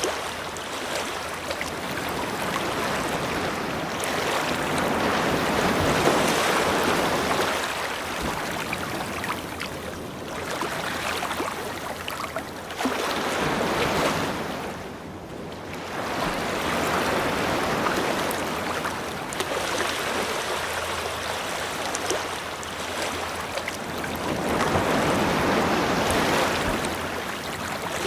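Ocean surf washing onto a beach, a steady rush that swells and falls back every few seconds, with a brief lull about halfway through.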